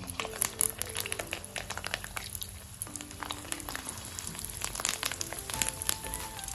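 Maggi noodle kofta balls frying in hot oil in a kadhai, with steady crackling and sizzling as each ball goes in and the oil bubbles around them. Soft background music plays underneath.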